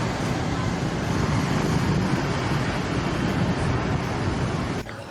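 A steady mechanical rumble with a noisy hiss over it, which drops off abruptly near the end.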